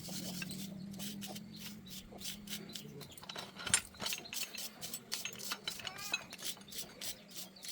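Metal tools and machine parts clinking and scraping in quick, irregular clicks while a rice hulling machine is worked on. A steady low hum dies away about three seconds in.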